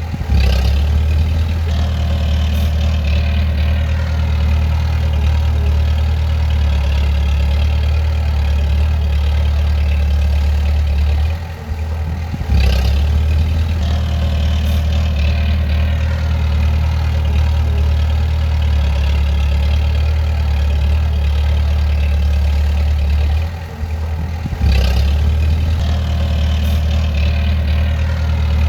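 Bulldozer's diesel engine running steadily with a heavy low hum. It drops briefly twice, about twelve and twenty-four seconds in, and picks back up sharply each time.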